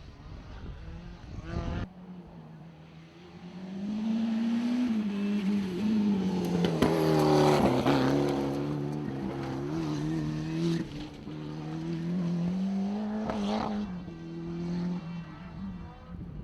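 Rally car engine revving up and down as the car comes past, rising to its loudest about halfway through and fading toward the end, with a sharp crack near the loudest point. The first couple of seconds are a different, rougher stretch of engine noise that cuts off suddenly.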